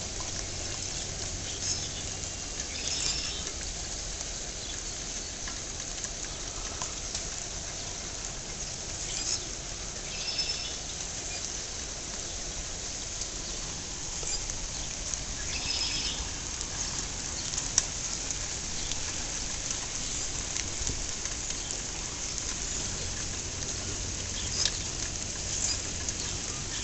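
Steady rain patter, with a few sharper drips now and then.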